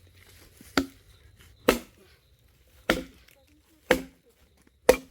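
Wood being chopped by hand: five heavy blade strikes into a thick log, about one a second, each a sharp knock with a short ring.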